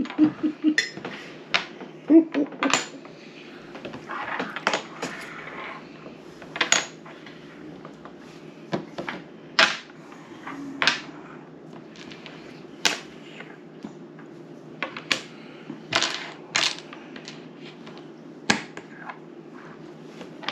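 Domino tiles clicking as they are set down on a table and knocked against each other: sharp single clicks at irregular moments, roughly one a second, over a low steady hum.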